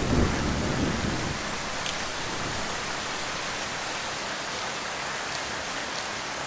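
Heavy rain falling steadily, an even hiss of drops. The tail of a low thunder rumble dies away in the first second or so.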